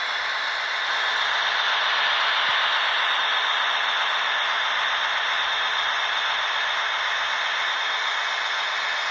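Model BR 215 diesel locomotive with an ESU sound decoder, playing diesel engine sound through its small onboard speaker. The sound is a steady hiss that gets a little louder about a second in.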